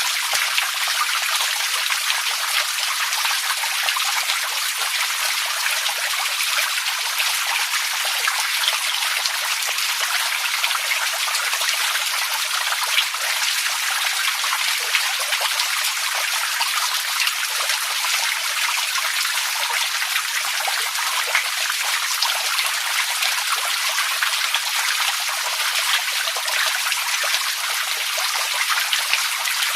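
Running water trickling steadily: a bright, even patter of fine splashes with no deep rumble.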